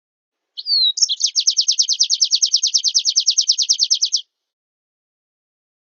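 Small songbird song from a bird-training recording: a short falling whistle, then a fast, even trill of about ten downward-sweeping high notes a second lasting some three seconds.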